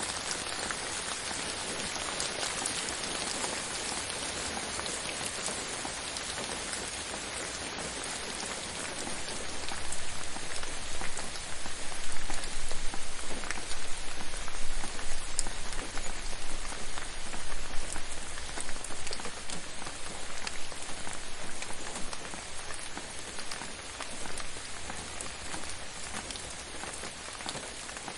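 Gentle rain falling steadily, with scattered individual drops ticking. It swells louder about a third of the way in, then eases off toward the end.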